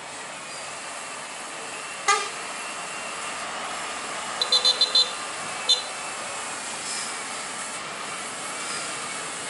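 Road traffic running steadily, with short horn toots: one sharp toot about two seconds in, then a quick series of four short high toots and a single toot about a second later.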